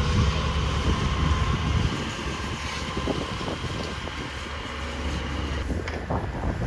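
Low, steady rumble of garbage-truck diesel engines running, loudest in the first couple of seconds and easing off after.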